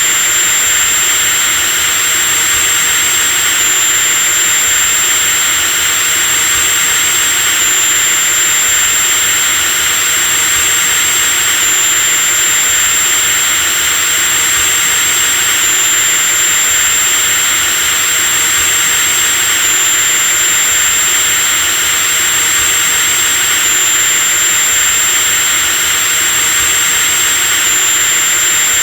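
Electric drill motor running continuously at steady speed, a high-pitched whine over a dense whirring hiss, with a slight hitch about every four seconds.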